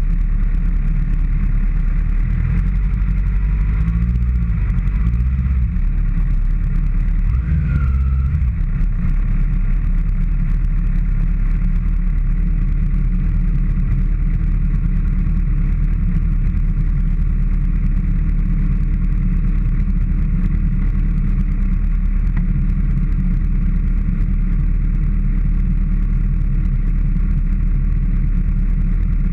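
2013 Kawasaki ZX-6R inline-four sport bike at racing speed, heard from an onboard camera: a steady, loud, muffled roar of engine and wind.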